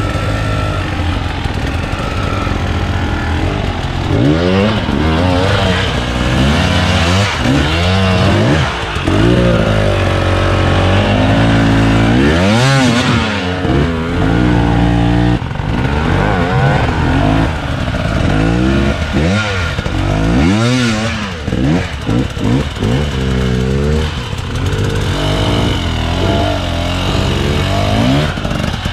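Enduro motorcycle engines revving up and down again and again under hard throttle work, the pitch climbing and dropping every second or two.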